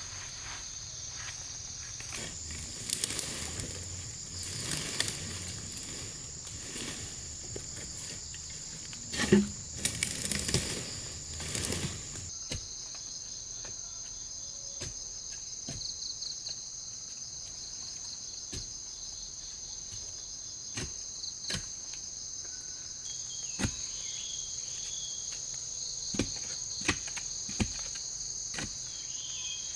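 Steady high-pitched chorus of forest insects. Scattered knocks and rustles come through it, thickest in the first half.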